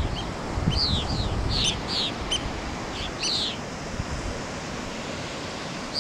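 Birds calling: a run of short, high chirps that each fall in pitch, mostly in the first three and a half seconds, with one more at the end. Under them is a low rush of wind and surf that is strongest at the start and then dies down.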